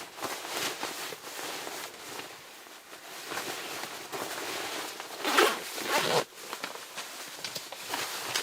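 A zipper being pulled amid rustling fabric, with two louder pulls a little past the middle.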